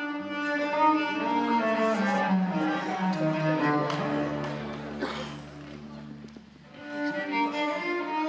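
Background music on bowed strings, cello and violin, playing sustained notes over a held low bass; it thins out about six seconds in, then swells again.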